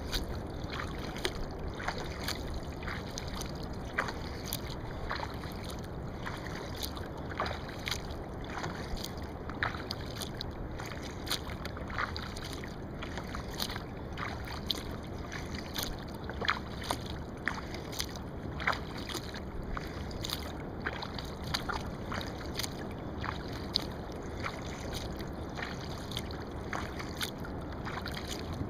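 Kayak paddling: short splashes and drips from the paddle blades entering and leaving the water, about one or two a second, over a steady hiss of moving water.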